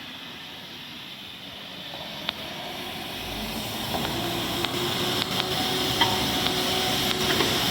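Street-cleaning water truck approaching, its engine running and its water spray hissing, growing steadily louder, with a few sharp clicks.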